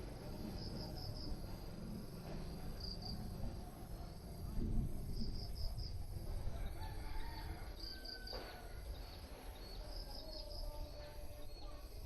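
Outdoor ambience: insects chirping in short groups of three or four high pulses every second or two, over a steady low rumble.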